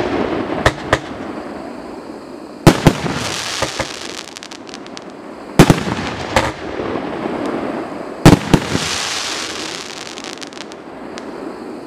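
A fireworks cake firing: loud bangs, mostly in pairs about three seconds apart, each followed by a hissing crackle as the shells burst.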